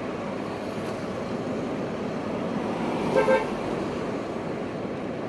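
Two short car-horn toots in quick succession about three seconds in, over a steady hum of street traffic.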